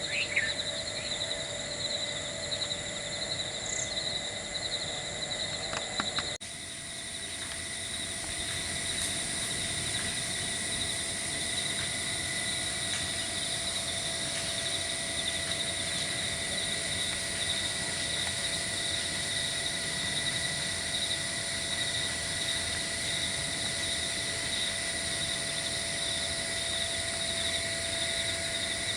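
Steady insect chorus, a continuous high trilling, with a slight change in its mix about six seconds in.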